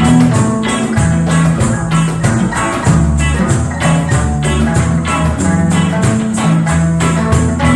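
Live band playing an instrumental passage in a reggae style: plucked strings over a bass line, with a tambourine or shaker keeping a steady, quick beat.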